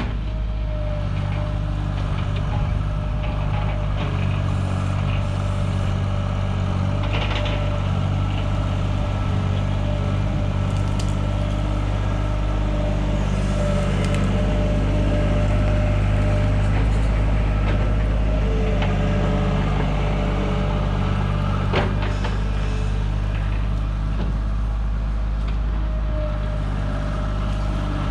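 Engine of an earth-moving loader running steadily as it works, with one sharp knock about two-thirds of the way through.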